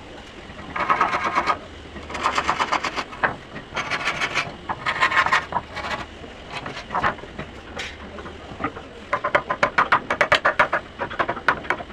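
A hand tool scraping across wood in a series of short strokes, each a rapid gritty rasping lasting about a second, with quicker, closer strokes near the end.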